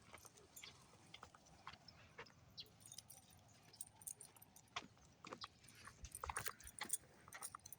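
Faint, irregular small clicks and light jingling, busiest about six to seven seconds in.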